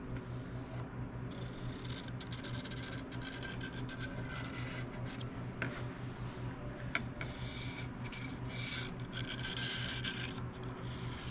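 Irregular scraping and rubbing of hand work on a metal workpiece, with two sharp clicks past the middle, over a steady low shop hum.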